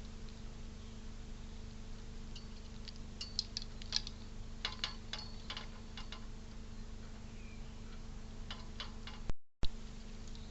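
Scattered light clicks and taps in irregular clusters, over a steady low electrical hum.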